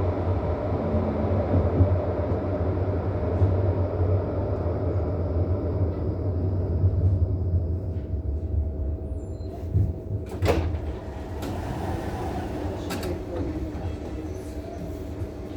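Bombardier NGT D12DD low-floor tram running, with a steady low rumble and a faint steady hum. The rumble fades about nine seconds in, and a couple of sharp clicks follow.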